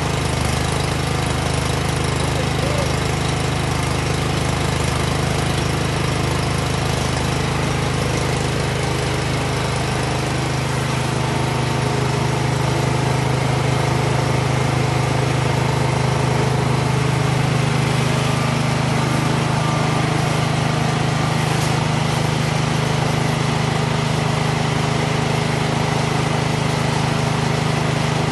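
Cub Cadet snow blower engine running steadily with the throttle set midway. This is the engine that had refused to start, now running on its own, with a slight change in its tone about ten seconds in.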